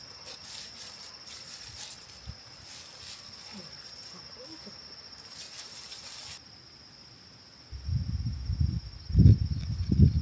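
A steady, high, even insect trill of crickets, with light rustling over the first part. From near the end, a run of loud, low thumps and rumbles comes in over the trill.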